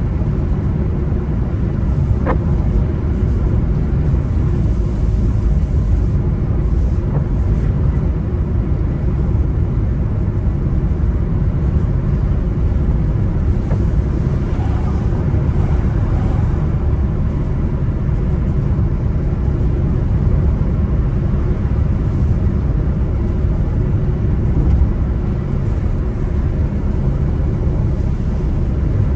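Steady low rumble of a car being driven, road and engine noise, with one brief click about two seconds in.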